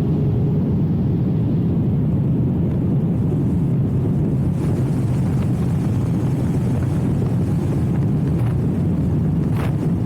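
Steady rumble of a motorcycle on the move: wind rushing over the microphone mixed with engine and road noise, at an even level with no distinct engine note.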